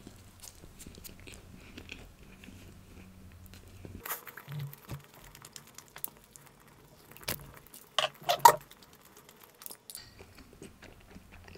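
Close-miked chewing of toasted bread: scattered small clicks and crunches of biting and chewing, with a short louder mouth sound about eight seconds in, then a sip from a glass near the end.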